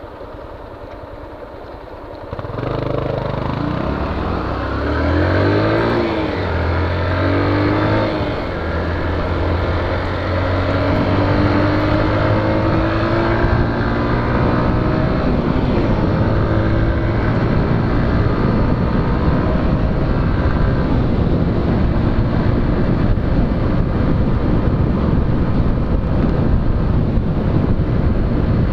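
Honda Fan 125 motorcycle engine at a low idle, then pulling away about two seconds in. It revs up several times with rising pitch as it goes through the gears, then runs steadily at speed under a constant rush of road and wind noise.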